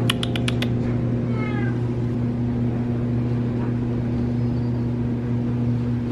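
A domestic cat meowing once, short and falling in pitch, about a second and a half in, after a few quick clicks at the start. A steady low hum runs underneath.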